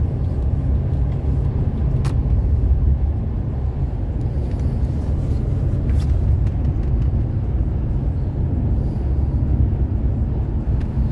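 Mercedes-Benz W126 500 SE's V8 and road noise at highway speed: a steady low rumble, with the engine not yet fully warm.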